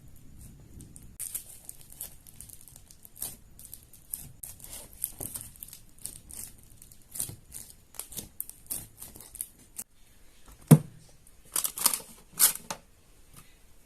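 Fidget toys being handled: irregular small clicks and crinkly crackles, with one sharper snap about eleven seconds in.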